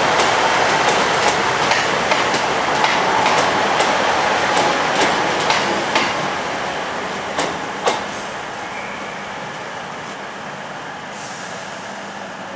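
Northern Rail train rolling past on the adjacent platform track, its wheels clicking over the rail joints about twice a second. The clicks slow and stop with two louder knocks about two-thirds of the way in, and the running noise then fades as the train comes to a stand.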